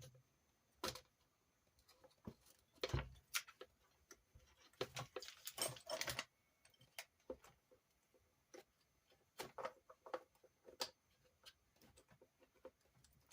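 Irregular light clicks and taps of small metal screws, parts and a hex driver being handled while reassembling an RC car's drivetrain, with a few louder knocks in small clusters.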